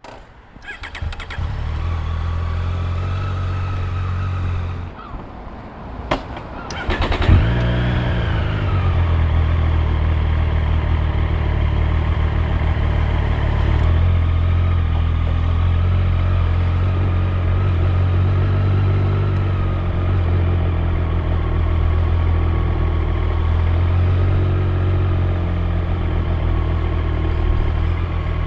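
Triumph Street Triple 765 R inline three-cylinder engine: it runs steadily for a few seconds, drops away with a click about six seconds in, then catches with a quick rev flare that falls back into a steady idle.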